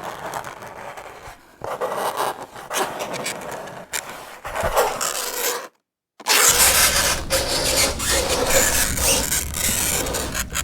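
Fingernails scraping across a chalkboard in a run of rasping strokes, cut off by a brief total silence a little past halfway before the scraping resumes louder.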